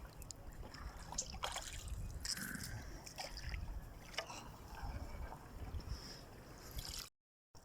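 Water trickling and sloshing around a small boat, with a steady low rumble and scattered light knocks. The sound cuts out briefly near the end.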